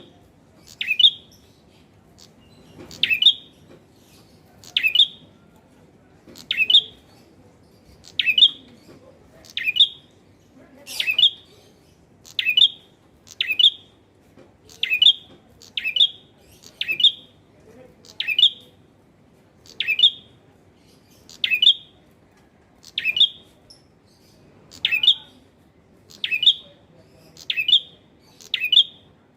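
Male red-headed prenjak (prinia) calling: a short, sharp, high chirp repeated steadily, about one every second and a half.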